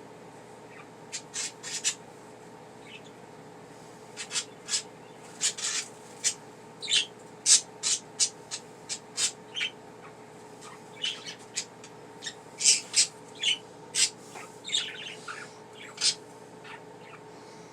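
Pet budgerigars chirping: many short, high chirps, a few at first and then in quick clusters from about four seconds in, over a faint steady hum.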